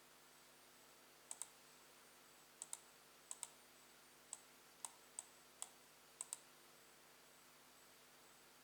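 Faint clicking: about a dozen short clicks, several in quick pairs.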